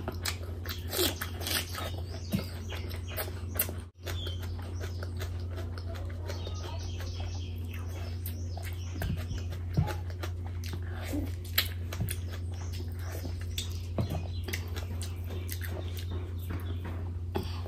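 Close-miked chewing and wet mouth sounds of a person eating curry and bhatura by hand. Sharp crunchy clicks come thickest in the first few seconds.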